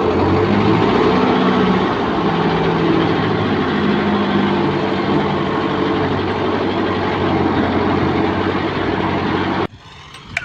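55 HP Kubota tractor's diesel engine running steadily, starting abruptly and cutting off sharply near the end.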